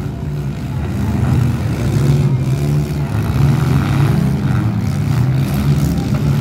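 Four-cylinder demolition derby cars' engines running and revving unevenly over a steady low engine drone.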